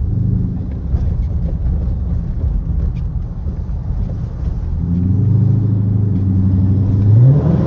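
Straight-piped Dodge Charger R/T's 5.7-litre Hemi V8 exhaust running at a steady drone while driving, then revving up with a sharp rise in pitch near the end.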